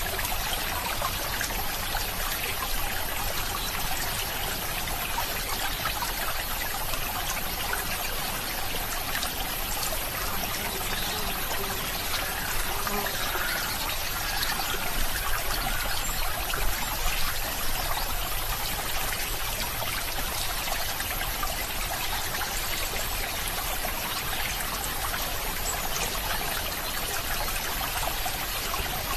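A stream of water trickling and flowing steadily over stones, an even rushing hiss with no breaks.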